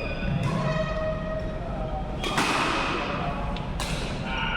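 Badminton rally: rackets hitting the shuttlecock three times, about one and a half to two seconds apart, with voices in the background.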